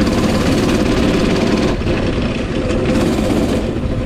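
Coleman 196cc mini bike's single-cylinder engine idling steadily while warming up after its first start of the day.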